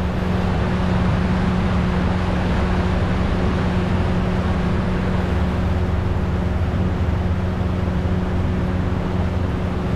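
Boat motor running steadily, heard underwater: a low, even hum with a constant hiss.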